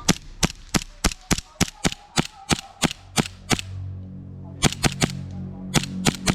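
Airsoft guns firing single shots, a sharp click each, about three a second, then a pause of about a second and two more quick runs of shots. A low steady hum comes in about halfway through.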